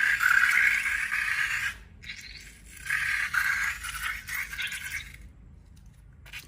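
Small loose pieces rattling and scraping in two bursts of about two seconds each, dying away near the end.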